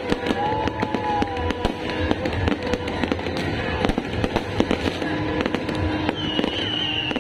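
Fireworks going off in a dense, continuous string of bangs and crackles, with music playing underneath.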